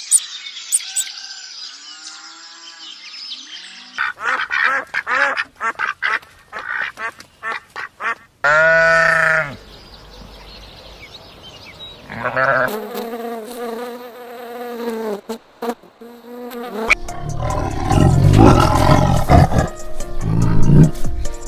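A string of different animal calls cut one after another: high chirping at first, then a run of short rapid calls, a single loud call a little before the middle, a longer pitched call after it, and a loud, dense, noisy stretch near the end.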